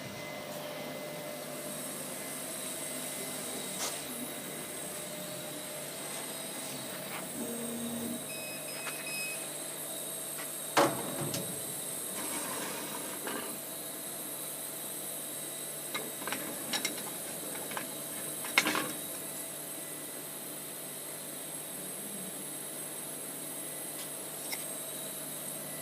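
Steady hum of a running CO2 laser cutting machine, with a few sharp clicks and knocks, the loudest about eleven seconds in and again near nineteen seconds.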